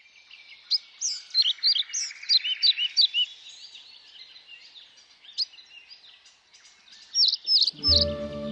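Woodland birdsong: several birds chirping in quick, high, sweeping notes, busiest in the first three seconds and again near the end. Near the end, music with low held notes comes in.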